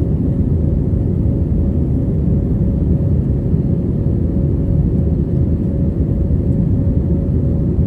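Jet airliner cabin noise during takeoff and climb: a loud, steady rumble of the engines and airflow, with a faint steady hum running through it.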